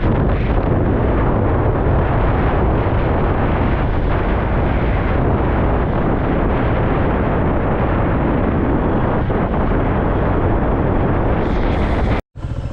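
Loud, steady wind buffeting on the microphone of a moving motorbike, drowning out the engine; it cuts off abruptly near the end.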